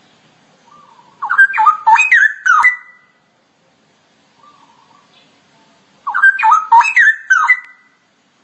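Straw-headed bulbul (cucak rowo) singing: two loud phrases of rich, liquid, rising and falling whistled notes, each under two seconds, about five seconds apart.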